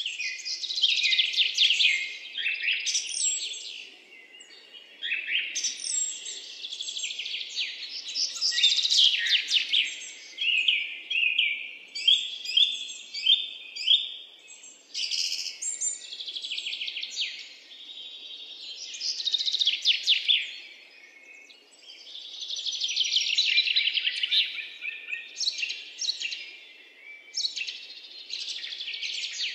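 Songbirds chirping and singing in quick trills, phrase after phrase with short pauses between.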